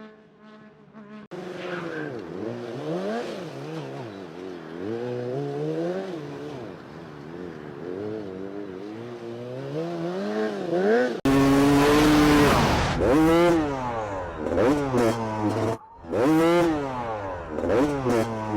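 Motorcycle engines revving hard, the pitch climbing and dropping again and again, in separate clips joined by abrupt cuts about a second in and about eleven seconds in. The later clip is louder and harsher, with a brief dropout near the end.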